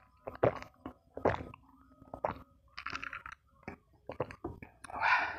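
Eating sounds at a meal of fried rice with crackers: a string of short, sharp crunches and clicks about a second apart, and a breath near the end.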